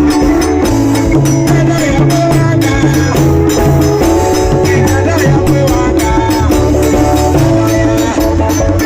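Live band music: a strong bass line and held keyboard-like chords under a fast, even, high percussion beat.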